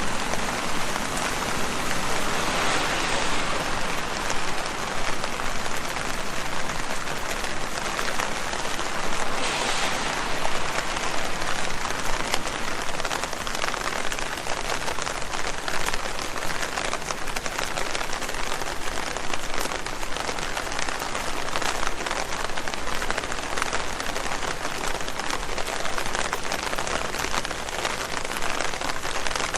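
Rain falling steadily on leaves: a dense patter of countless small drops, swelling slightly a couple of times.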